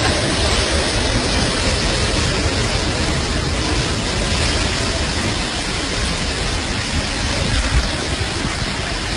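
Heavy rain pouring down in a storm, a steady, dense hiss.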